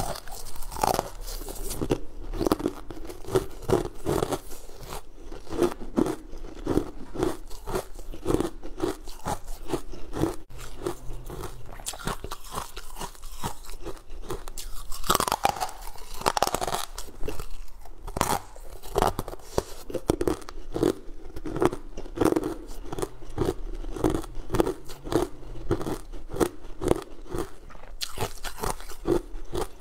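Close-miked biting and chewing of crunchy sugar-coated jelly candy, with many sharp crunches over a steady chewing rhythm of about one to two chews a second.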